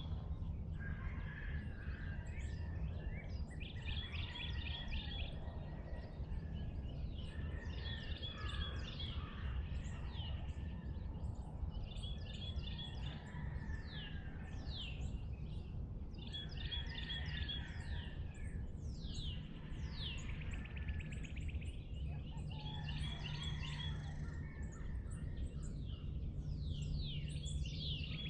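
Dawn chorus of several songbirds. Repeated clear whistles slur steeply downward, and a short trilled phrase returns about every four seconds, over a steady low rumble.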